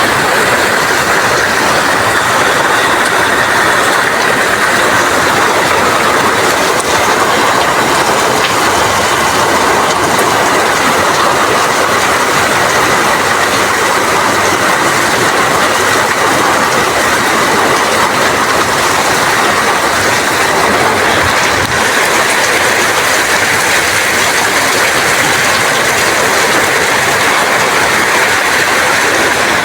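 Heavy rain driven by strong wind, a loud, steady, even hiss.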